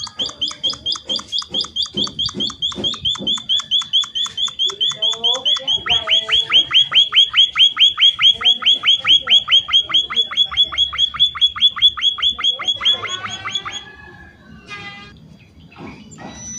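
An emprit (munia finch) singing a long, fast series of identical high chirps, about five or six a second. The chirps grow louder about six seconds in and stop abruptly near the end, leaving a few fainter chirps.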